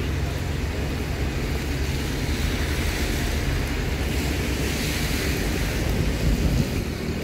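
Steady outdoor noise of a wet street in the rain, with traffic, and wind rumbling on the phone's microphone.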